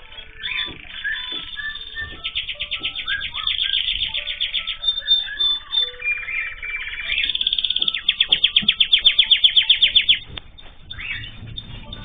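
A room of caged ornamental birds (canaries, zebra finches, goldfinches and cockatiels) chirping and calling over one another. Two long, very fast trills of song stand out, one starting about two seconds in and one about seven seconds in; the second is the loudest and stops abruptly about ten seconds in.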